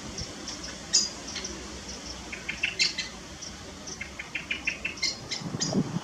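Garden birds chirping: short, sharp notes, some in quick runs of about five or six a second.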